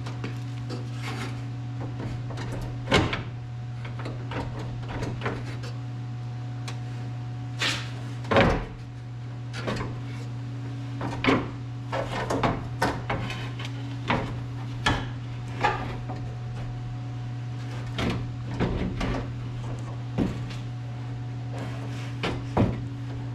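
Scattered knocks, clunks and scrapes as the window glass is worked loose and lifted out of a 1980 El Camino's door, over a steady low hum.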